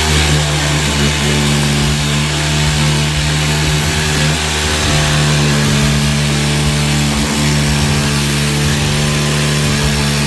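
Electric power tool motor running steadily at speed, a loud whine over a hiss.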